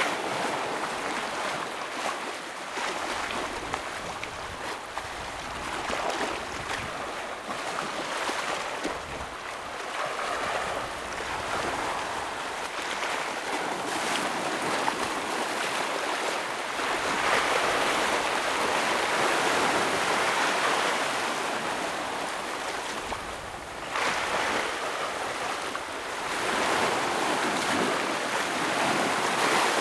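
Ocean waves breaking and washing against shoreline rocks: a continuous surf wash that swells louder several times, most strongly in the second half.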